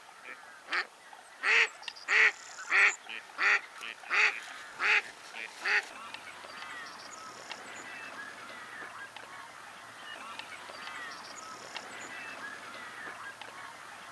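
Waterfowl calling: one bird gives a series of about eight loud calls, roughly one every two-thirds of a second, then stops about six seconds in, leaving a chorus of many fainter overlapping calls from a flock on the water.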